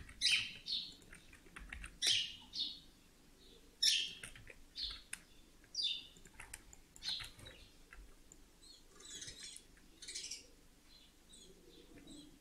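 A bird chirping, short high chirps repeated every second or so, several of them falling in pitch.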